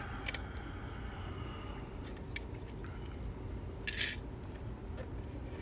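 Small metallic clicks and clinks from a just-picked M&C Color+ high-security lock and its picking tools being handled: a sharp click near the start and a brief rattle about four seconds in.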